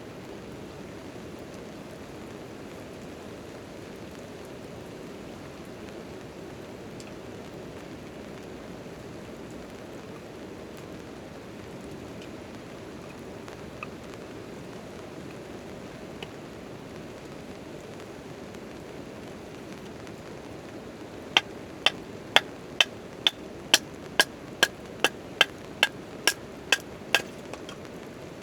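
Steady rain falling on a tent tarp. Near the end, about fourteen sharp, ringing strikes come in a fast even series, about two a second, like a hammer striking metal.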